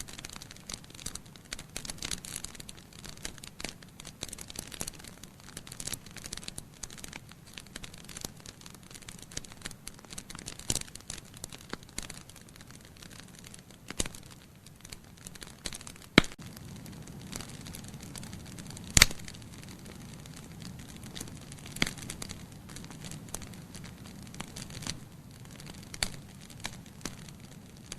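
Wood fire burning in a fireplace, crackling steadily with frequent small pops over a soft low rush of flame. Two sharper, louder pops come at about 16 and 19 seconds in.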